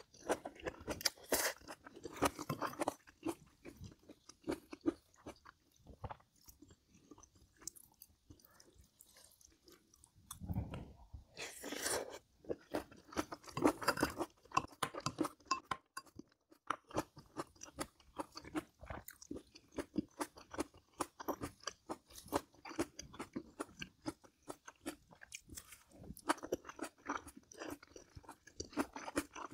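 A person chewing and crunching food close to the microphone: a dense, uneven run of small crunches and bites, louder for a few seconds around the middle.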